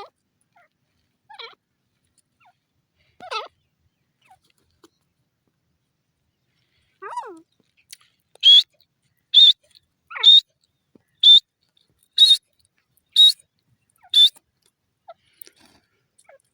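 Grey francolin calling: a few soft, lower notes, then a loud run of seven high-pitched calls about one a second.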